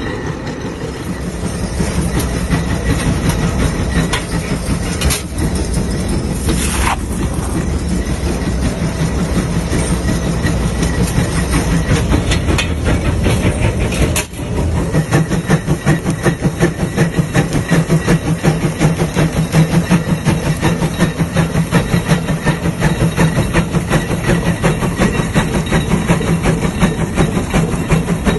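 Heavy diesel engine running with a fast, even, pulsing chug, briefly cut off about halfway through and then coming back a little louder.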